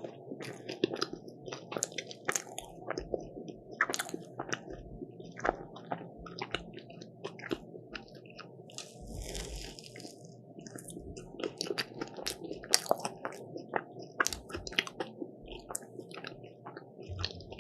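Close-up eating sounds of crisp croffles: sharp crackly bites and crunchy chewing, irregular and continuing throughout.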